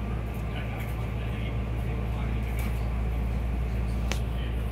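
Steady low hum inside a stationary electric commuter train car, its onboard equipment running while it waits at the station, with a single sharp click about four seconds in.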